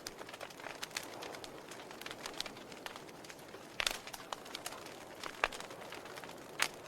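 Wood fire of burning logs in a fireplace, a steady hiss with irregular crackles and sharp pops, the loudest about four seconds in and just before the end.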